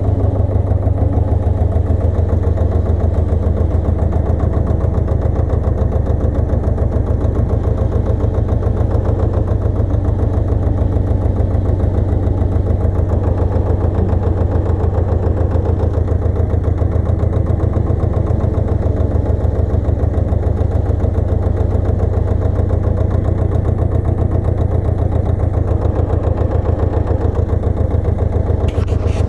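Pasquali 980 EX tractor's engine running steadily, with a rapid, even low pulse.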